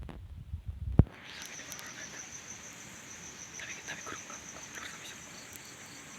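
A few low handling thumps and a sharp click, then crickets chirping in a steady, fast, evenly pulsing high trill.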